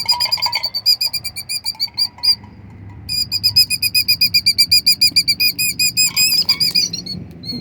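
A nesting bird calling in a rapid series of sharp, high notes, about eight a second, breaking off briefly about two and a half seconds in and then going on. These are alarm calls at a person close to its eggs.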